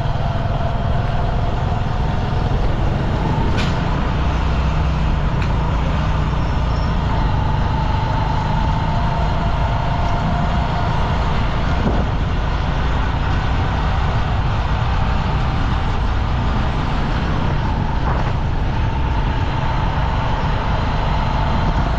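Steady motor-vehicle running noise: a continuous low rumble with a faint whine that drifts slowly in pitch.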